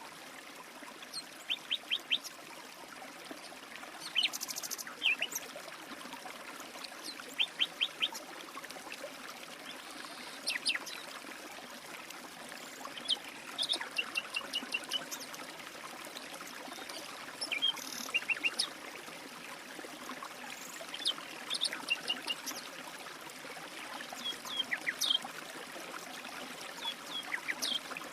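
A steady trickle of running water, like a small stream, with birds chirping over it in short quick runs of high notes every second or two.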